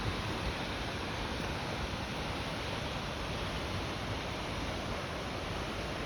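Steady, even rushing noise of water, with no distinct events in it.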